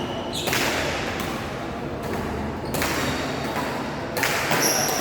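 Badminton rackets striking the shuttlecock in a rally: three sharp hits, each ringing out in the hall's echo, with a brief high squeak near the end.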